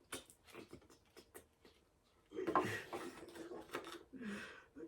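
Small clicks and taps from gingerbread house kit pieces being handled on a table, a quick run of them in the first couple of seconds, then a soft murmur of voice and handling noise.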